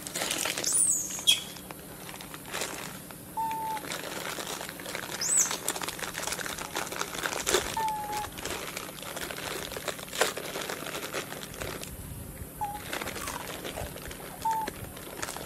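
Birds calling: a short clear whistled note repeated four times a few seconds apart, and a couple of high thin chirps, over scattered light crackling and rustling.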